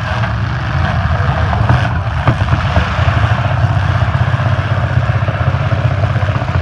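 Engines of several demolition derby cars running together in a loud, steady low rumble.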